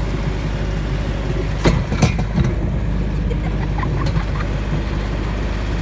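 Tractor engine running steadily, with a few sharp knocks or clatters about two seconds in.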